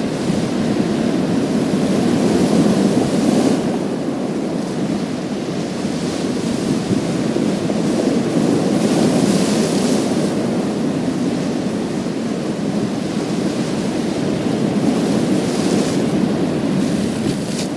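Sea waves breaking and washing over a pebble beach, a continuous surf noise that swells in surges every several seconds, with a brighter hiss on each surge.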